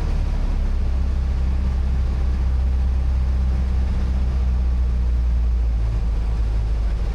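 Light aircraft engine and propeller droning steadily, heard from inside the cockpit during a pattern approach; the low hum shifts slightly about six seconds in.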